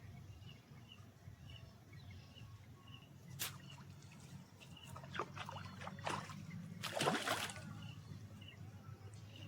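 Water splashing several times, the loudest about seven seconds in, as a hooked tilapia is pulled up at the surface. A short insect-like chirp repeats about twice a second behind it.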